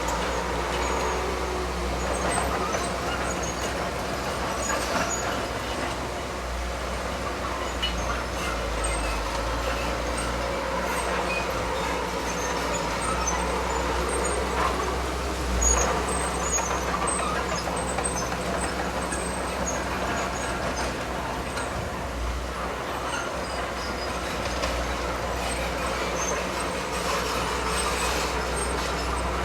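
Diesel engine of heavy earthmoving machinery running steadily under load, with a deep rumble and occasional metallic clatter, and one louder knock about sixteen seconds in.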